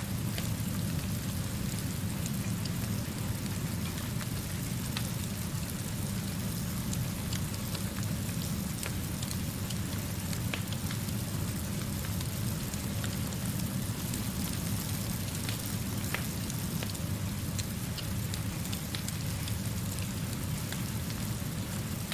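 Steady rainfall with a low, even rumble underneath and scattered sharp ticks of drops or crackles.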